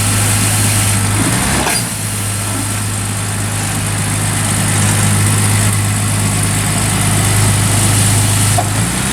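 A car engine idling steadily with a low, even hum. It briefly dips and wavers about a second and a half in, and again near the end.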